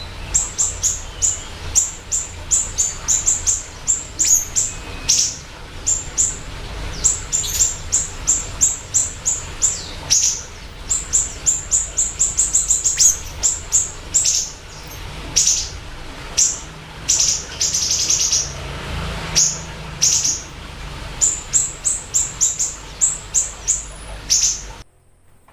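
Siri-siri bird singing in fast runs of short, high chirps, repeated over and over, used as lure and training song for cage birds. The song cuts off suddenly near the end.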